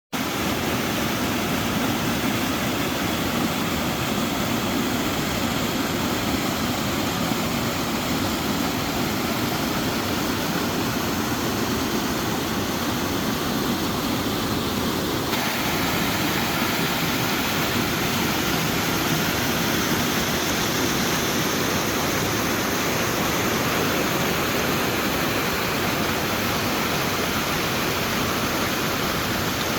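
Small mountain creek rushing steadily over rocks. About halfway through, the water sound turns abruptly brighter and more hissing.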